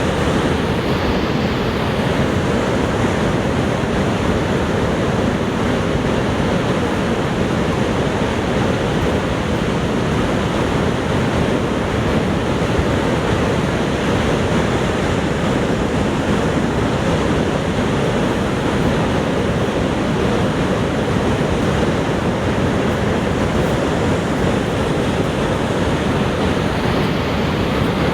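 Niagara Falls: a heavy, unbroken rush of falling water, steady throughout, deepest in the low and middle range.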